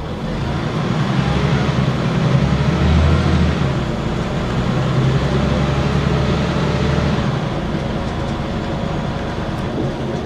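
Scania N94UB single-deck bus's engine running under load. Its rumble builds over the first few seconds, dips briefly about three and a half seconds in, then eases off around seven seconds in.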